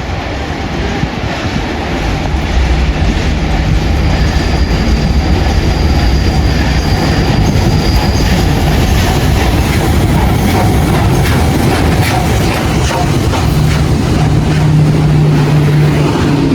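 Train rolling past at a station: the wheels clatter over the rail joints, a low steady hum runs underneath, and a thin high wheel or brake squeal comes in for several seconds in the middle.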